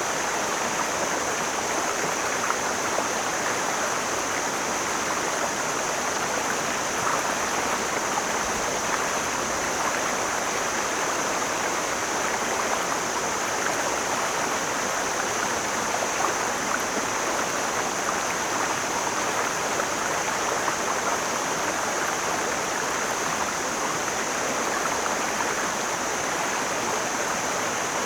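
Mountain stream flowing: a steady, even rush of water, with a steady high-pitched hiss above it.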